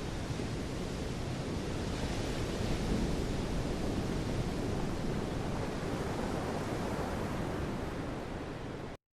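Steady wash of sea surf with wind, swelling slightly a few seconds in and cutting off abruptly near the end.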